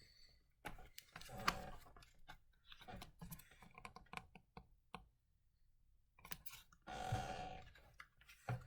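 Faint handling noise: scattered small clicks and rustles, with a short near-silent gap about five seconds in.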